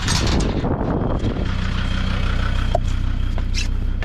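4x4 engine running steadily at low revs, with a short rush of louder noise in the first second.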